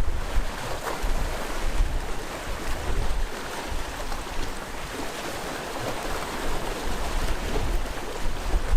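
Sea waves washing and surging continuously against the shore, with low gusts of wind buffeting the microphone.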